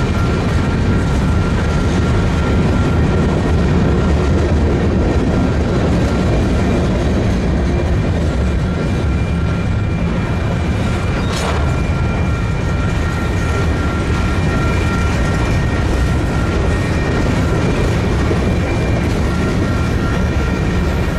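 Freight train on the move: a steady heavy rumble with a few thin high tones held over it, and one sharp click about halfway through.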